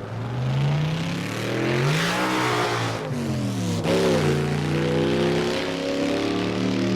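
Chevrolet-powered sidewinder dragster engine revving: the pitch climbs for about two seconds and drops back, rises and falls again briefly around four seconds in, then settles to a steady note.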